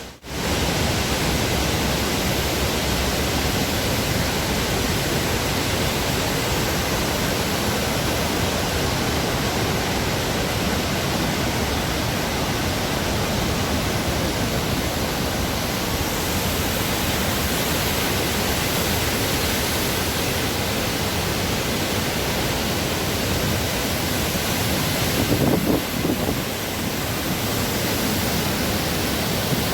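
Artificial canal waterfall pouring steadily, a continuous even rush of falling water. About 25 seconds in there is a brief, slightly louder patch.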